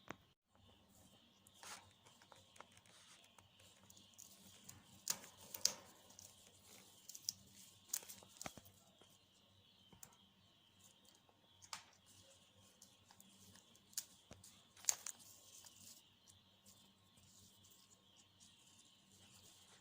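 African grey parrot tearing and biting neem leaves, giving scattered sharp snaps and crinkles at irregular intervals, the loudest about five to six seconds in.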